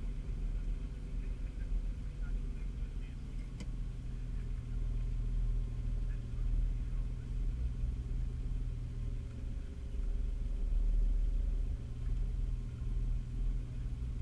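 Nissan Patrol's engine idling steadily with a low rumble, the vehicle stationary, heard from inside the cab. A single short click about three and a half seconds in.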